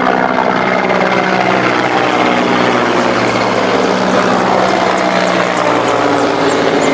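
Military helicopters flying low overhead: a loud, steady rotor and turbine sound whose pitch slides as they pass.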